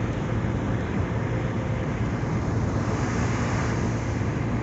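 Steady road and engine noise of a car driving along, heard from inside the cabin: a low hum under tyre hiss, the hiss swelling briefly about three seconds in.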